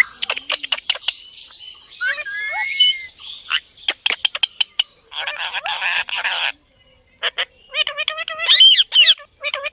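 Parrot calling: sharp clicking sounds and short chirps, a harsh screech lasting about a second and a half partway through, then a run of rapid, wavering, chattering calls near the end.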